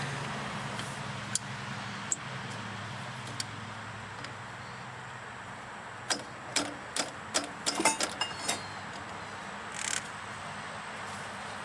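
Hand tools clinking and tapping on metal while prying stuck fuel injectors out of a Mazda Miata engine: a few scattered clicks, then a quick run of sharp clinks about six to eight seconds in, and a short rustling burst near the end.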